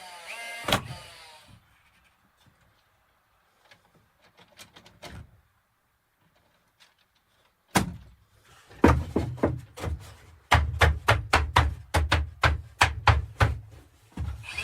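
Hammering on wood: a single knock, a quiet spell, then from about eight seconds in a fast run of sharp blows, about three a second.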